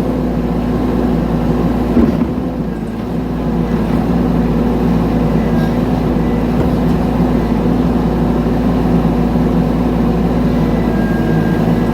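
Mini excavator's diesel engine running steadily, with a brief knock about two seconds in.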